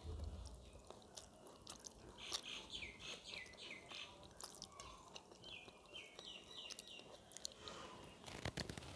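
Close chewing and mouth sounds of someone eating, with small clicks and crunches. A bird chirps in the background: a run of short falling notes about two seconds in, and another shorter run around five seconds.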